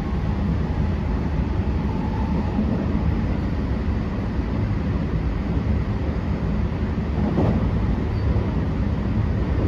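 Cabin running noise of a JR West 321 series electric multiple unit, heard inside motor car KuMoHa 320-14 with Toshiba IGBT inverter drive. A steady low rumble of wheels on track and running gear, with faint steady tones above it.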